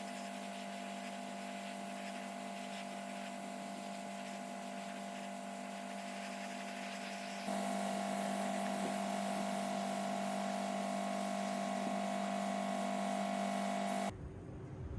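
A power tool motor runs with a steady hum over an abrasive rubbing hiss, as in sanding or grinding a part. It gets louder about halfway through and cuts off abruptly near the end.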